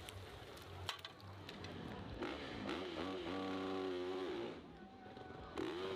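Motorcycle engine revving hard on a hill-climb run: the pitch climbs, holds high for a second or so, then drops off, and rises again near the end.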